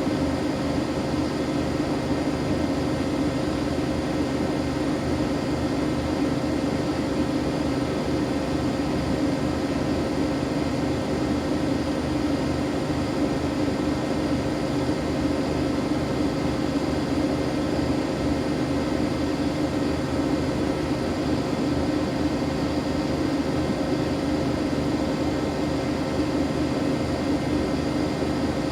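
Siemens Siwamat iQ 716 washing machine running with a steady, unbroken hum.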